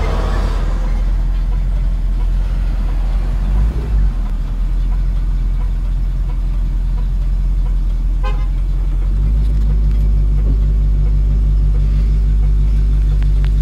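Older car's engine running at low revs, heard inside the cabin as a deep, steady rumble. About nine seconds in it grows louder and fuller as the engine takes more load or revs.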